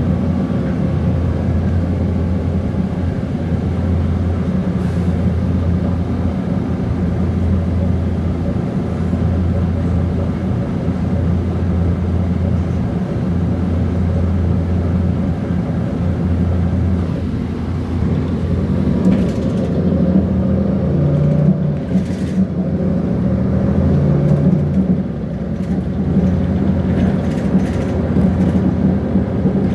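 Mercedes-Benz Conecto G articulated bus running on its OM457LA six-cylinder diesel, a steady low engine note that shifts in pitch about two-thirds of the way through as the engine speed changes. A few knocks and rattles come in around the change.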